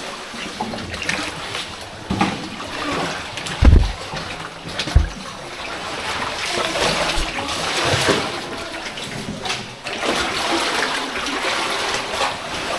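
Water splashing and sloshing as people move through shallow water in a cave passage, with a few dull thumps, the loudest about four and five seconds in.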